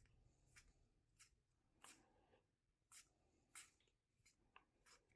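Near silence with faint, soft flicks and slides of baseball trading cards being handled and flipped through one by one, about eight brief ticks spread over the few seconds.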